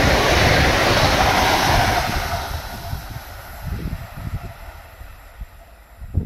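Two coupled ED74 electric multiple units passing at speed: a loud rush of wheels on rail and air that fades away about two seconds in as the train draws off, leaving faint low rumbles.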